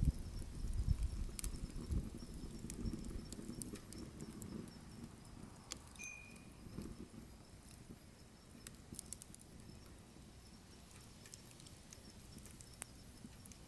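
Wood fire crackling, with scattered sharp pops and snaps; a low rumble in the first few seconds fades away.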